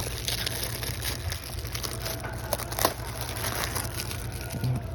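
Plastic packaging crinkling and crackling as it is handled, with a few sharp clicks near the middle.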